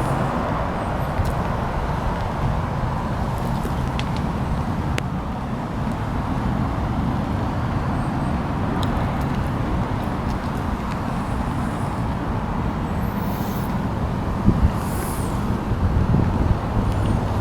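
Steady low rumble of a motor vehicle running, most likely the 1966 Chevy C-10's 350 V8 engine, with a few faint clicks.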